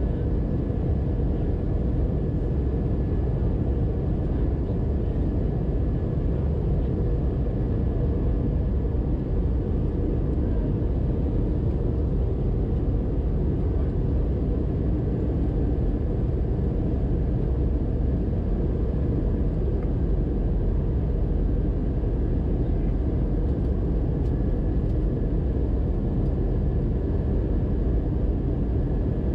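Steady in-flight cabin noise of an Airbus A320-200 airliner: its CFM56 engines and the airflow over the fuselage, strongest in the low end, with a faint steady high whine over it.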